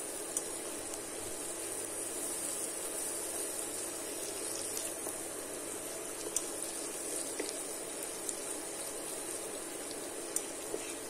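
Onions and spices sizzling steadily in hot oil in a pot while a wooden spoon stirs them, with a few faint clicks of the spoon against the pan.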